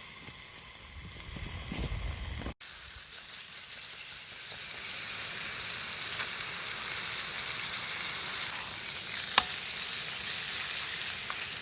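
Food sizzling steadily in a frying pan, with one sharp click about three-quarters of the way through.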